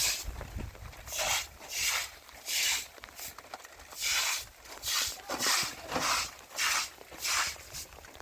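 Footsteps on wet ground, a short scuffing step about every two-thirds of a second, with a pause of about a second near the middle.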